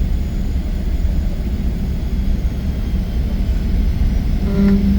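Steady low rumble of a Boeing 777-300 heard from inside the passenger cabin. Near the end a brief pitched hum sounds for about half a second.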